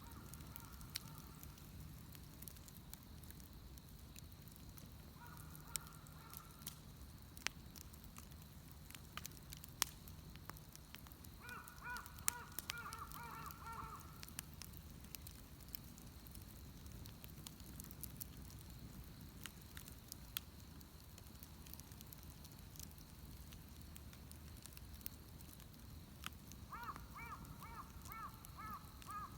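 Wood bonfire crackling faintly with scattered sharp pops. A bird calls in four bouts of quick repeated notes, the longest runs in the middle and near the end.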